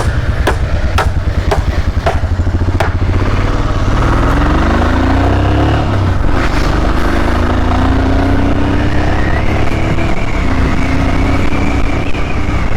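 Royal Enfield Himalayan Scram 411's single-cylinder engine pulling away and accelerating, its pitch rising, dropping at a gear change and rising again. Sharp ticks come about twice a second over the first few seconds.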